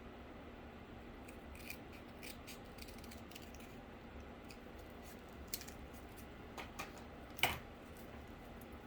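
Scissors cutting cardboard in a series of short, irregular snips, the loudest about seven and a half seconds in.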